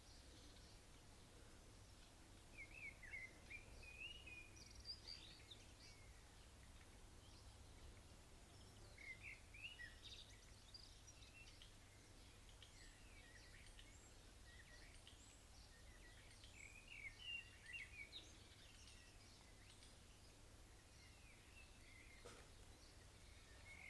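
Faint birdsong: short bursts of chirping every few seconds over a steady low background rumble.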